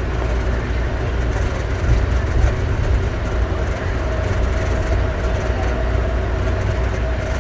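Automated airport people-mover train running at speed, heard from inside the car: a steady low rumble with a constant mid-pitched motor whine.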